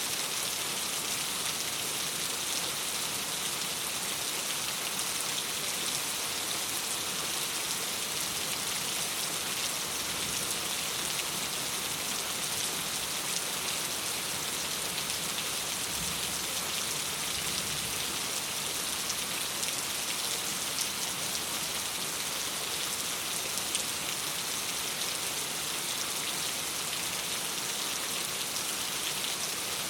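Steady rain against a window: a dense, even hiss of falling rain with a fine patter of drops, unchanging throughout.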